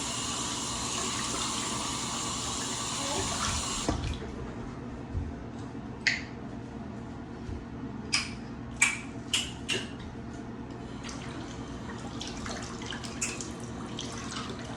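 Bathroom sink tap running, shut off about four seconds in, followed by several short, sharp clicks and knocks.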